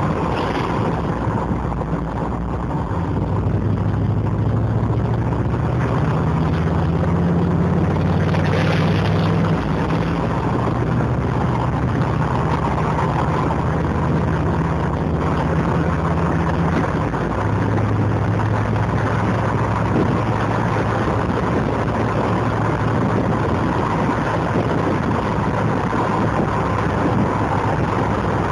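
TVR Wedge's Rover V8 running under way, heard from inside the cabin with road and wind noise. The low burble steps up in pitch about six seconds in, then falls back twice as the throttle eases.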